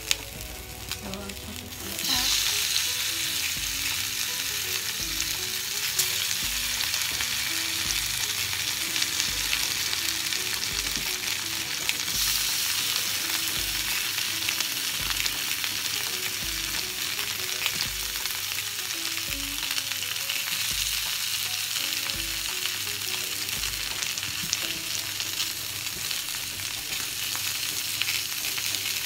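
Salmon fillets and slices of boiled potato frying in hot oil in a grill pan, a steady sizzle. The sizzle jumps louder about two seconds in, as potato slices go into the oil, and again about twelve seconds in.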